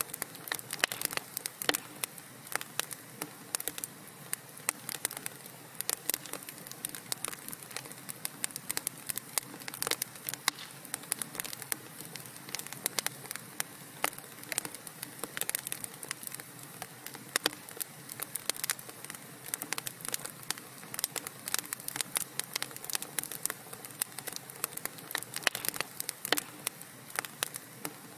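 Wood fire in a fireplace crackling and popping, with many sharp irregular snaps over a soft, steady hiss of burning logs.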